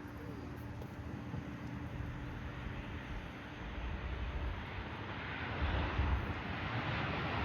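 Jet airliner engine noise heard from outdoors with wind rumbling on the microphone, the engine hiss growing louder over the last couple of seconds.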